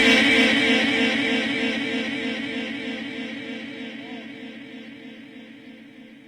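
The last note of a man's melodic Quran recitation dies away in a long echo, with a wavering tone lingering and fading steadily over several seconds.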